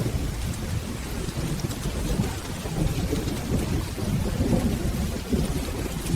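Steady rain with soft rolling thunder, a continuous low rumble under the hiss of the rain.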